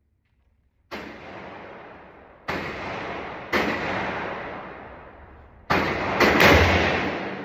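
Five gunshots at uneven intervals, each ringing on with a long echo that fades over a second or more. The last two come close together and are the loudest.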